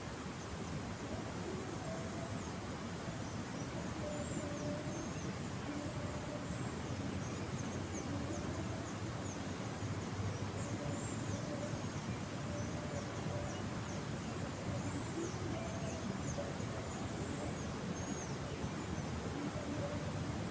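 Small birds chirping over a steady background hiss, the chirps short, high and falling in pitch, scattered all through.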